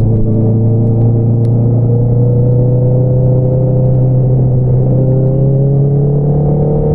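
2022 Honda CBR650R's inline-four engine through an Akrapovič single-outlet exhaust, running steadily under light throttle with the revs creeping up slowly.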